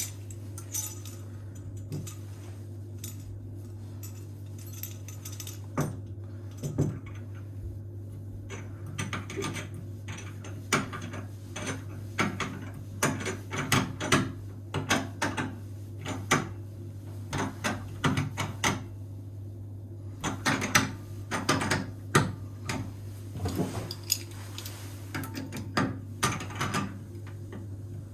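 Metal tools and faucet fittings clinking and knocking in irregular bursts during a bathroom faucet replacement, over a steady low hum.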